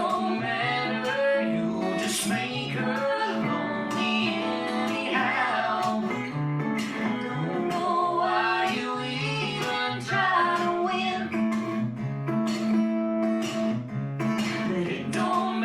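Live country music played on guitars, a stretch of the song with little or no lyric singing.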